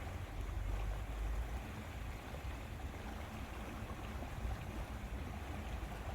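Steady lakeside ambience: water lapping against the shore with a low wind rumble on the microphone.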